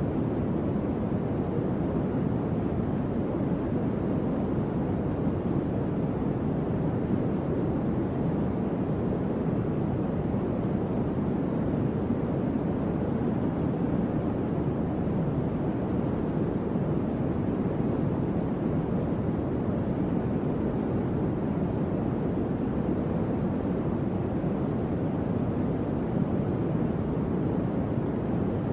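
Electric fan running steadily: an even, deep rush of air with no hum, clicks or changes.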